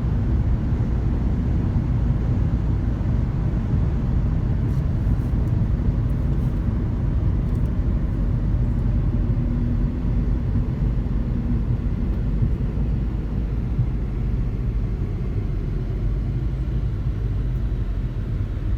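A car being driven slowly, with steady low engine and road rumble heard from inside the cabin.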